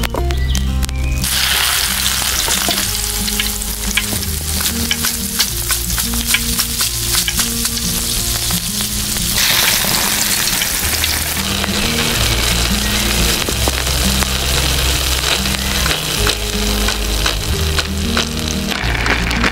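Food frying in hot oil in a miniature pan: a steady sizzle with dense crackling that starts about a second in.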